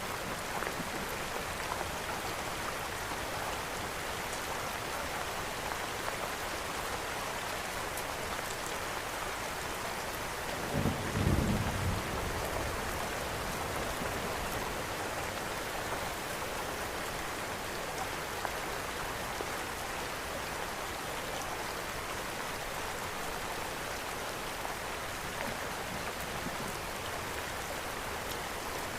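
Steady, even rain noise, with a brief low rumble about eleven seconds in.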